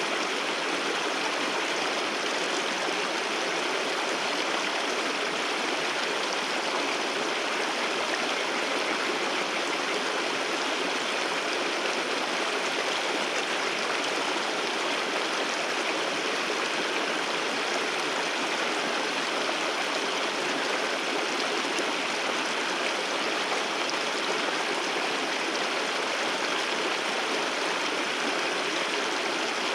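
Waterfall water pouring and rushing steadily: an even, unbroken rush with no deep rumble.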